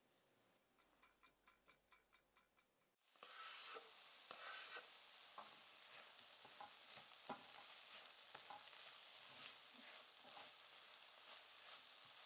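Shredded cabbage, carrot and chickpeas sizzling in a nonstick frying pan as they are stirred with a wooden spatula, with a steady hiss and scattered scrapes and taps. Before that, for about three seconds, a whisk ticks faintly against a ceramic bowl about four times a second while mixing batter.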